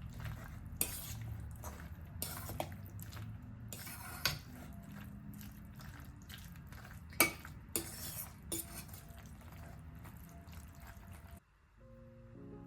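Cutlery and dishes clinking: scattered light taps and clinks over a steady low hum, the sharpest about seven seconds in. The sound cuts off abruptly about eleven seconds in, and soft instrumental music begins.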